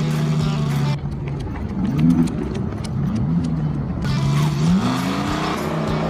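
Race car engine sound effect played from a portable speaker, the engine revving up and dropping back several times as if shifting gears.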